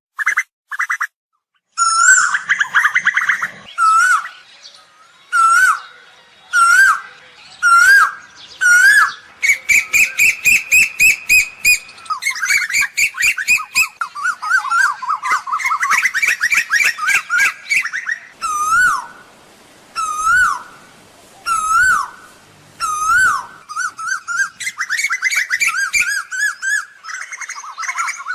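Asian koel calling loudly. Single hooked, whistled notes come about a second apart, alternating with fast runs of many short notes, the kind of calls used to lure koels.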